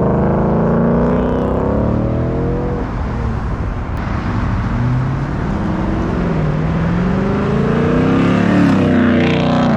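A car engine revving as the car drives off, its pitch climbing and dropping several times.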